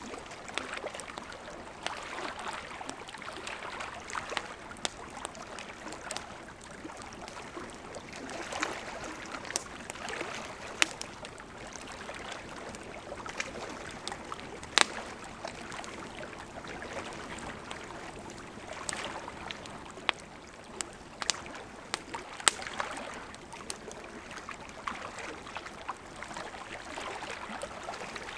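Burning wood in a campfire crackling: a steady hiss with irregular sharp pops and snaps, a few much louder than the rest.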